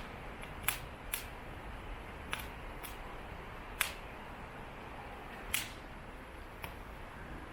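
Wood fire crackling: irregular sharp pops and snaps from burning firewood, about seven in a few seconds, over a soft steady hiss.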